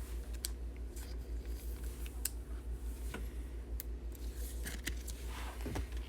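Faint clicks and light handling noise of trading cards being flipped through and sorted, over a steady low hum.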